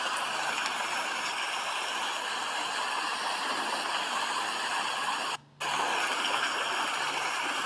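Steady hiss of falling rain, broken by one brief gap of near silence about five and a half seconds in.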